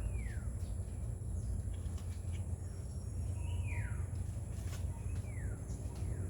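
A bird calling three times, each call a short whistle sliding down in pitch, about two seconds apart, over a steady low rumble.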